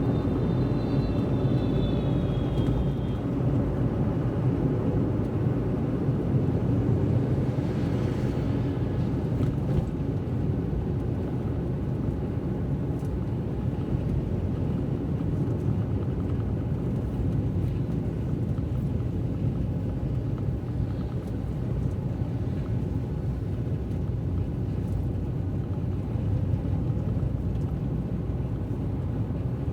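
Car driving on a wet road: a steady low rumble of engine and road noise. A brief high whine, falling slightly in pitch, sounds over the first three seconds, and a short hiss passes about eight seconds in.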